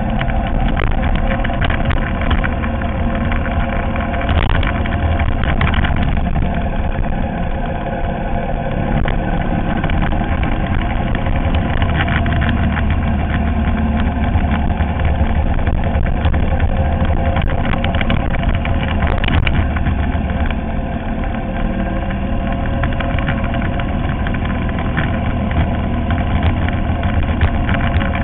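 Ural sidecar motorcycle's air-cooled flat-twin engine running steadily while riding, easing off briefly twice.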